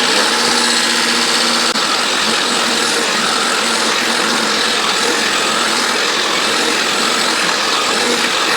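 Ozito lawn mower running steadily under load, its blade cutting grass at a freshly raised cutting height.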